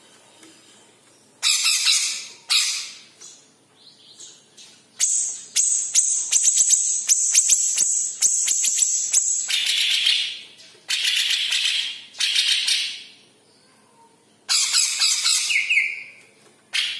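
Green leafbird (cucak ijo, the yellow-headed form) singing in loud, high-pitched bursts of chattering song with short pauses between them. In the middle there is a long run of rapid, sharp notes lasting about four seconds.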